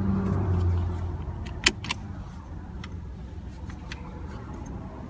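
Car sounds: a low hum in the first second, then two sharp clicks close together, with lighter ticks and a low rumble after.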